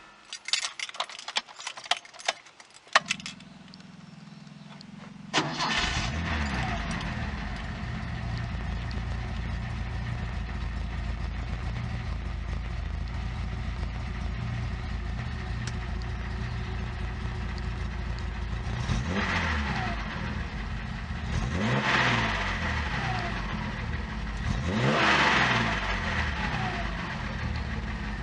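A 1972 Nissan Skyline 2000GT-X's twin-SU-carburetted straight-six with dual exhaust, heard from inside the car. After a few clicks, the starter cranks for about two seconds, and the engine catches about five seconds in. It then settles to a steady idle, with three short blips of the throttle near the end.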